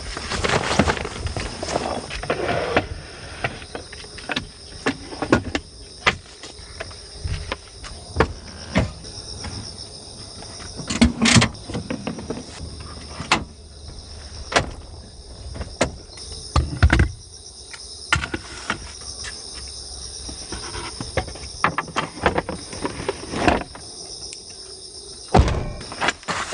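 Irregular knocks, clicks and clatter of things being handled, loudest about 11 and 17 seconds in and again near the end, over a steady high chirring of insects.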